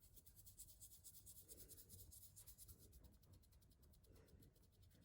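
Near silence: faint room tone with a low hum and a rapid, scratchy ticking.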